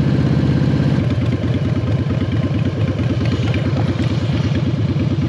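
Harley-Davidson Softail Standard's V-twin engine running under way, heard from the saddle. About a second in the note changes to a slower, more distinct beat.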